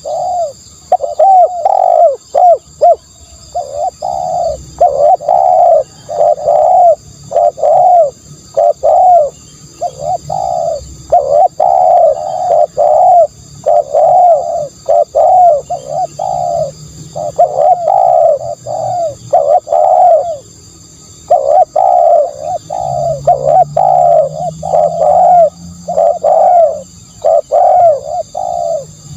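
Spotted dove cooing over and over, loud, the notes coming in runs of three or four with short pauses between runs.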